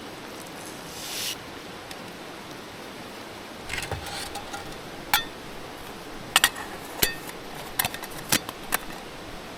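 A series of sharp, light metallic clinks and knocks, about eight in the second half, as small hard objects are handled, over a steady hiss; a brief rustle about a second in.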